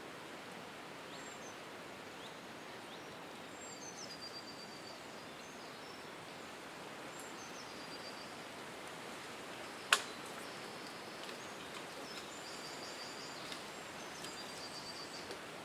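Steady outdoor background hiss with birds calling, short high whistled phrases that step down in pitch and quick trills, several times. One sharp click about ten seconds in is the loudest sound.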